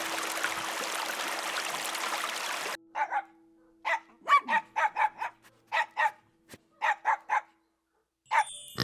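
Dog barking in a quick series of short, separate barks, about a dozen over four seconds, starting about three seconds in after a steady hiss cuts off.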